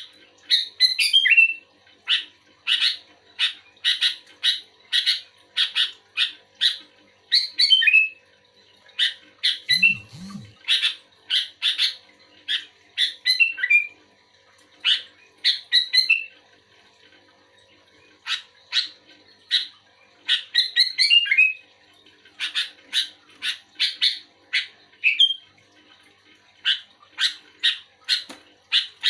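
Sooty-headed bulbul singing: quick runs of short, sharp chirps, two or three a second, broken by brief falling warbled phrases, with a pause of a couple of seconds a little past halfway.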